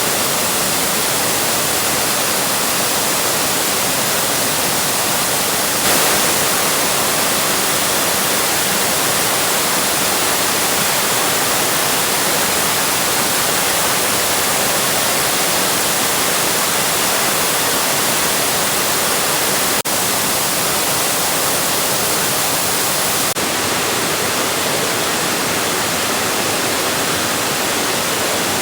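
Waterfall rushing loudly and steadily. Its tone shifts slightly a few times.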